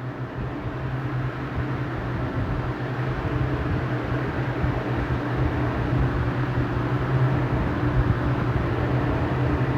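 A loaded truck's engine running under load: a steady low drone that grows slowly louder over the first few seconds, then holds.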